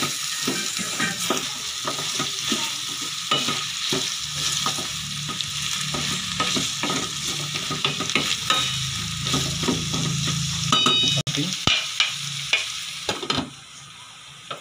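Carrots, squash and pork sizzling in a stainless steel pan while a wooden spatula stirs them, clicking and scraping against the pan. Near the end the sizzle drops as the lid goes on.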